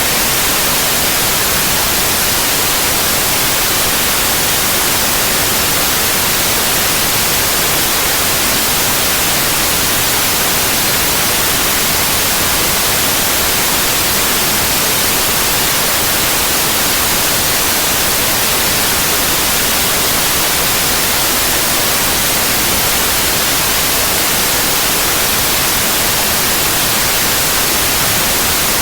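Synthetic white noise: a loud, even hiss across all pitches, unchanging throughout.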